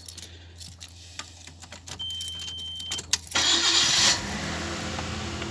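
A few light clicks and a one-second beep, then the starter of a Nissan RB20 two-litre single-cam straight-six cranks briefly. The engine catches within a second and settles into a steady idle.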